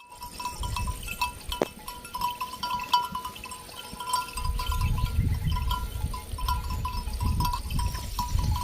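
Small animal bells clinking irregularly, as on a grazing flock of goats or sheep, with a low rumble coming in about halfway through.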